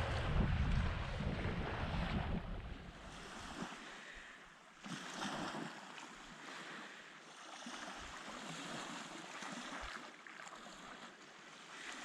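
Wind buffeting the microphone as a loud low rumble, which drops away after about three seconds to leave a fainter, steady rush of wind and distant surf.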